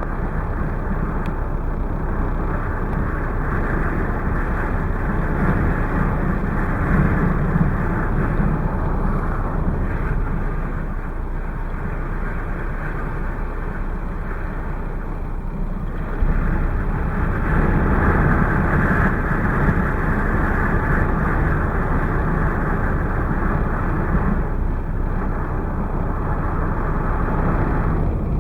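Strong blizzard wind rushing and gusting over the microphone, with a steady rumble underneath; it surges louder about halfway through.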